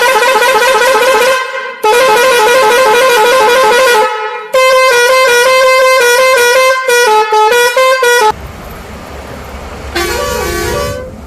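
Vehicle horn honking: two long, loud blasts, then a third long blast that breaks into several quick short toots. A low rumble follows, and a tune starts near the end.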